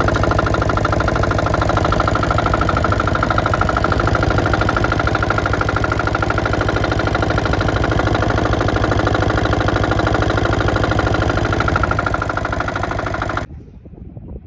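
Komatsu PC03 mini excavator's small diesel engine idling steadily, then cutting off abruptly about thirteen seconds in.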